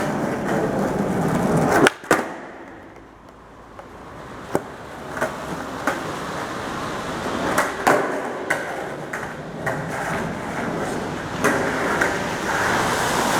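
Skateboard wheels rolling on concrete, with sharp clacks of the board's tail and wheels hitting the ground, in an echoing underground parking garage. About two seconds in the rolling cuts off suddenly, then builds up again with more clacks.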